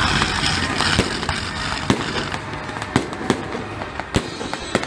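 Fireworks going off: a dense hissing crackle of sparks for the first two seconds or so, then a string of separate sharp bangs and cracks, about one a second.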